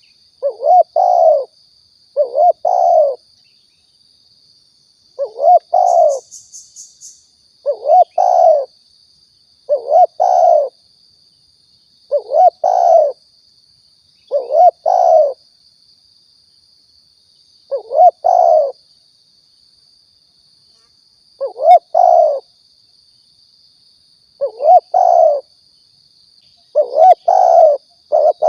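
Spotted dove cooing, a repeated low phrase of two or three notes every two to three seconds, played as a lure call to draw doves in. A faint steady high-pitched tone runs underneath, and a quick run of high ticks comes about six seconds in.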